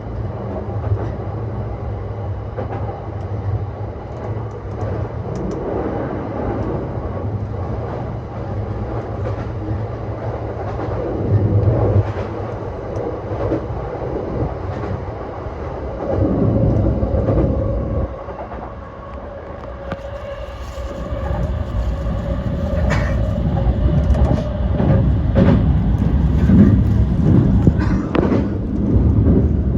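E235 series 1000 electric train running along the line, a steady rumble of wheels on rail with scattered clicks over rail joints. A steady hum sits through the middle, and the running noise grows louder over the second half.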